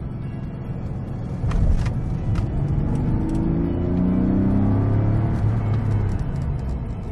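Porsche 964 Carrera's air-cooled 3.6-litre flat-six heard from inside the cabin, its note rising in pitch as the car accelerates and then holding. A few sharp clicks come just before it picks up.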